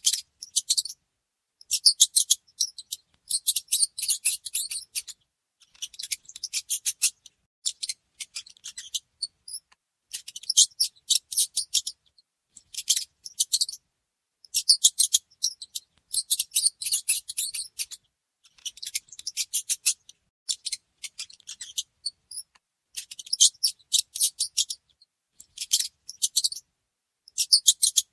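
Mouse sounds: short bursts of rapid, high-pitched clicking squeaks, each lasting about a second, with brief silent gaps between them, repeating throughout.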